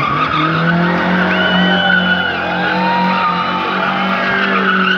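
A car engine running hard at steady revs while its tyres squeal through a corner.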